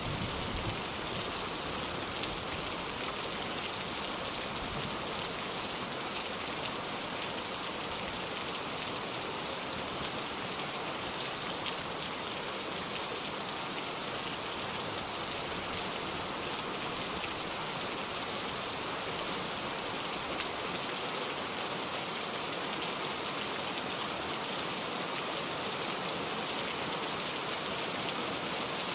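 Rain falling steadily: an even hiss of many drops, with the odd sharper drop tick standing out.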